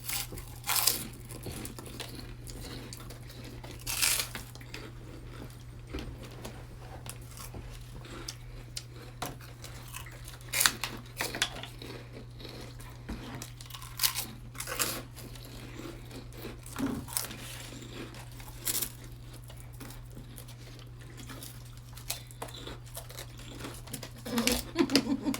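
Pork rinds crunching as they are chewed fast, in scattered short bursts, over a steady low hum.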